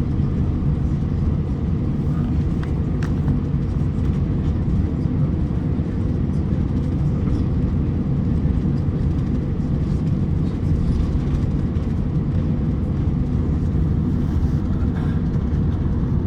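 Steady low cabin rumble of an Airbus A350-900 taxiing, its Rolls-Royce Trent XWB engines at idle, with a couple of faint clicks about three seconds in.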